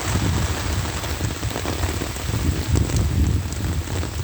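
Heavy downpour, rain hitting an umbrella held overhead in a dense, steady rush with a fluttering low rumble and scattered drop clicks.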